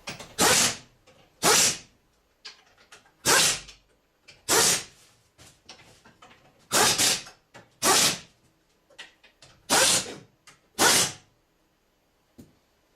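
A power tool run in short bursts, about nine of them a second or two apart, as bolts are driven in.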